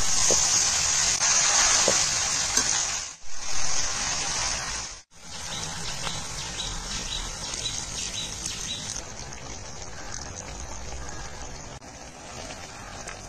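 Chicken pieces sizzling in hot oil in a kadai: a loud, high hiss for the first few seconds, broken twice for a moment, then a quieter, steady sizzle.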